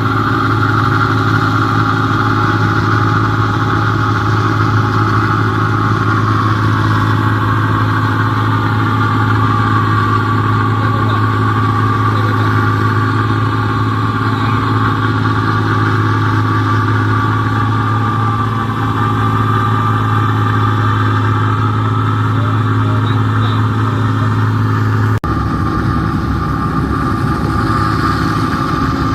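New Holland 1545 combine harvester's engine and threshing machinery running steadily at working speed, a constant loud drone with a strong low hum. The sound changes abruptly near the end.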